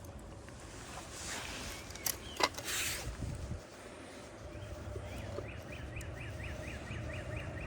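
A few sharp clicks and a short rushing noise about two and a half seconds in, then a small bird singing a rapid trill of about five short notes a second through the last two seconds.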